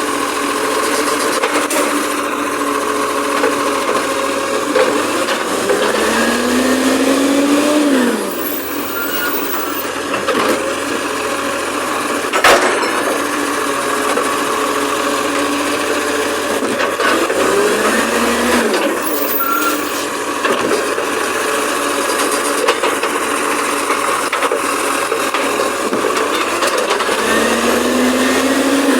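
Garbage truck's engine running and revving up three times, its pitch rising over a second or two each time and then dropping back. There is one sharp knock about halfway through.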